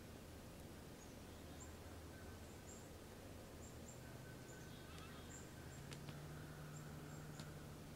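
Quiet woods: about ten faint, very short, high-pitched bird chips scattered across the moment, over a low steady hum.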